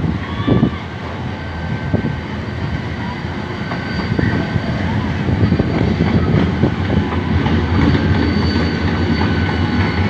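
A train passing close by: a heavy rumble of wheels with irregular clacking over the rails, slowly growing louder.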